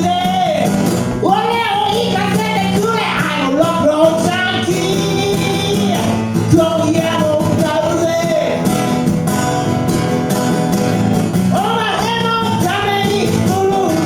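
A live song by a two-piece band: a singer's voice over amplified instruments, with a steady low accompaniment and a rock feel.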